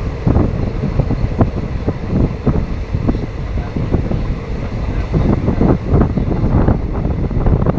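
Wind buffeting the microphone over the low rumble of a moving passenger train, with irregular knocks from the wheels on the rails.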